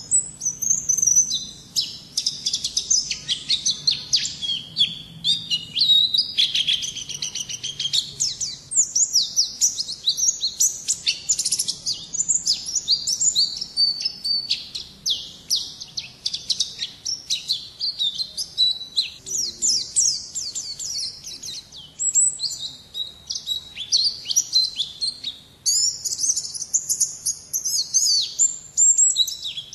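A white-eye (pleci) singing a fast, high-pitched, continuous twittering song of rapid chirps and trills without a break.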